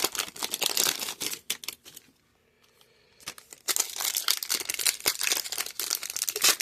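Foil trading-card pack wrappers crinkling and rustling as they are handled and stacked, with a brief pause about two seconds in.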